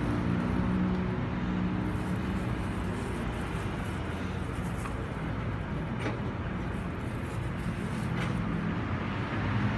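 Motor vehicle engine running nearby, a steady low hum that fades in the middle and comes back near the end, with a couple of faint clicks.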